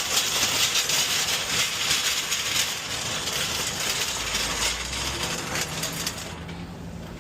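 Box truck running: a steady road-and-engine hiss, with a low engine hum coming in about four seconds in as the hiss fades toward the end.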